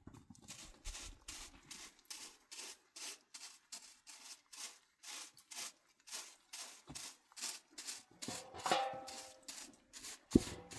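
Rhythmic rubbing or scraping strokes, about two to three a second, with a single sharp knock near the end.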